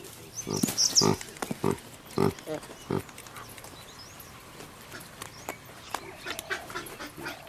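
Olive baboons grunting: a run of short grunts in the first three seconds, with a brief high squeak about a second in, then quieter scattered clicks.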